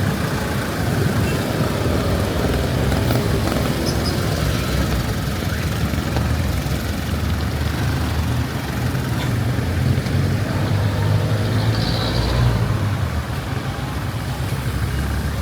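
Road traffic in heavy rain: vehicle engines running steadily and passing on a wet road, over a constant hiss of rain.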